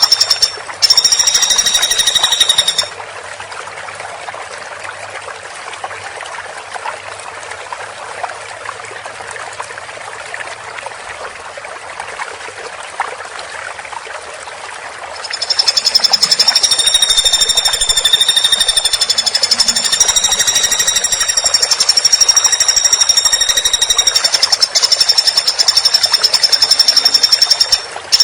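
Woodpecker calling in a rapid, high-pitched rattling trill: loud for the first few seconds, then a quieter stretch of faint fast notes, and loud again from about halfway on.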